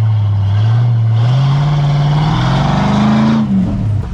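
Off-road vehicle's engine running under throttle, its pitch climbing steadily for about two seconds, then dropping back and cutting off just before the end.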